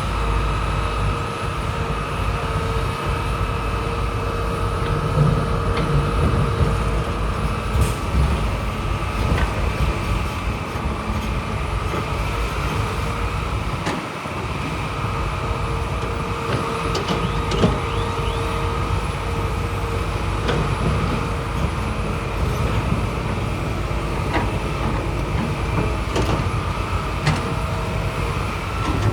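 Heavy earthmoving machinery running: a steady diesel engine note with scattered clanks and knocks.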